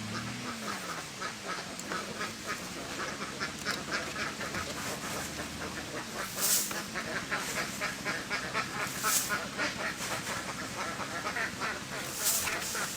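A flock of domestic ducks quacking continuously, many short calls overlapping, with three brief hissing rushes standing out partway through and near the end.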